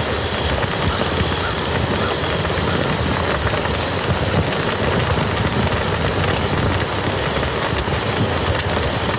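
Campfire crackling with many small pops over the steady rush of a flowing river.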